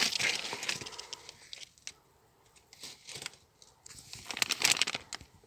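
Oiled parchment paper crinkling in irregular bursts with short pauses as it is handled and unwrapped from a new crankshaft damper pulley.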